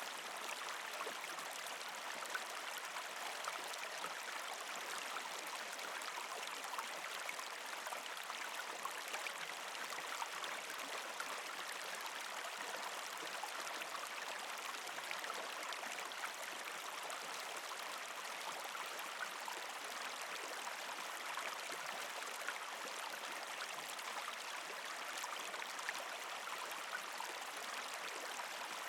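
Partially frozen creek flowing over rocks: a steady rush of water with small scattered splashes and trickles throughout.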